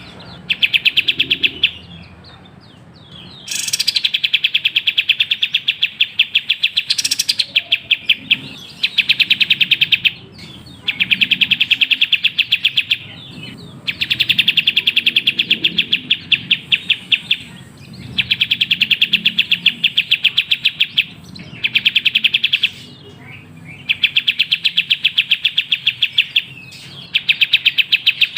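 A kapas tembak bulbul singing in repeated bouts of fast rapid-fire chirps, each bout lasting a few seconds with short pauses between them.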